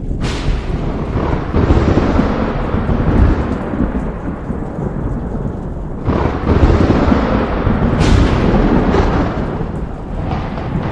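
Thunder over steady rain: a sharp crack just after the start rolls into a long rumble, and a second peal about six seconds in is followed by further cracks near eight and nine seconds.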